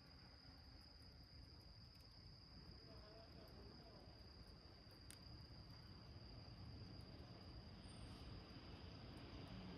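Faint, steady high trill of crickets, with a few faint clicks from the small wood fire burning in the can.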